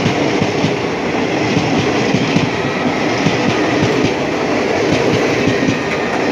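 Passenger train coach in motion, heard from on board: a steady rumble and rattle of steel wheels running on the rails.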